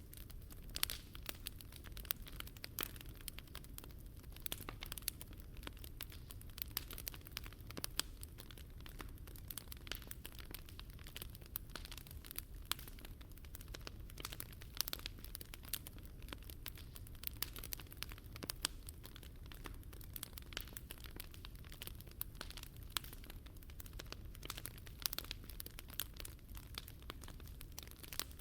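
Wood fire burning in a Picogrill 398 fire stand, crackling and popping constantly and irregularly over a low steady rumble.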